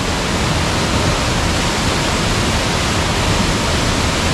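Steady, loud rush of fast-flowing river water or a waterfall, an even hiss with no breaks.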